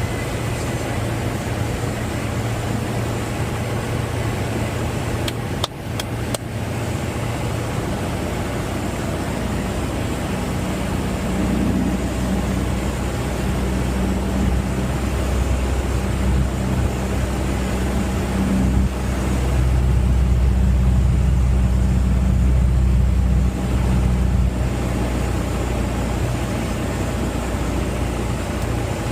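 Piper Cherokee's engine and propeller droning steadily in the cockpit. A few short clicks sound about six seconds in. The drone grows louder about eleven seconds in and eases back a few seconds before the end.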